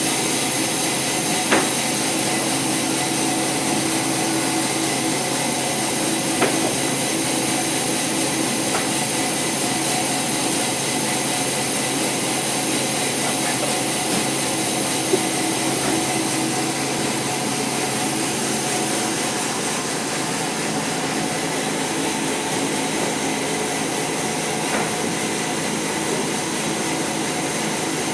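Sawmill saw running steadily while ripping a teak log lengthwise, with a few sharp knocks now and then.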